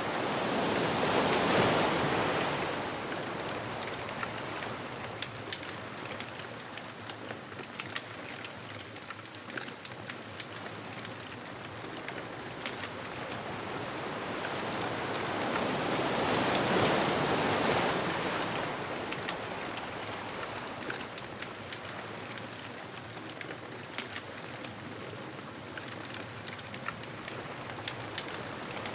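Ocean waves breaking on a beach: the surf swells up and dies away twice, once near the start and again around the middle, with a steady wash between. Faint, scattered crackles of a bonfire run through it.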